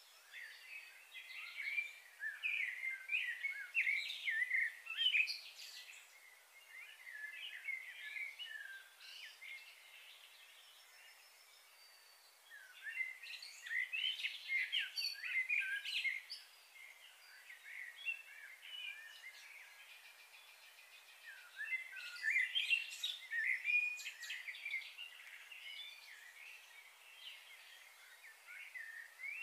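Small birds chirping and twittering in several bursts of quick, high calls, with quieter stretches between.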